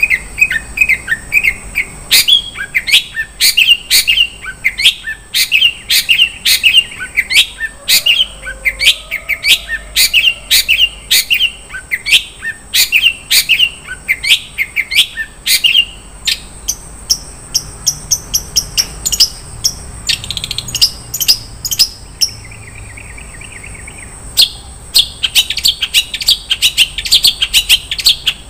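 Long-tailed shrike (cendet) singing a fast, varied song full of mimicked 'isian' phrases: quick sharp repeated chirps, several a second. It eases to softer notes about two thirds through, then breaks into a dense rapid run of notes near the end.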